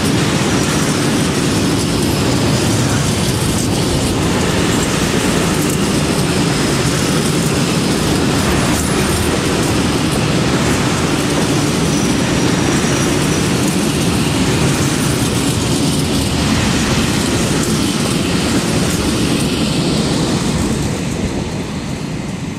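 Freight train of covered hopper wagons rolling past close by: a steady, loud rumble and clatter of wagon wheels on the rails, fading near the end as the last wagons go by.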